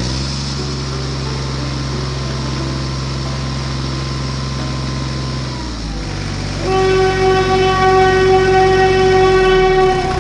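Vehicle sound effect: a steady low engine drone, then about two-thirds of the way through a long, loud, steady horn blast that holds to the end.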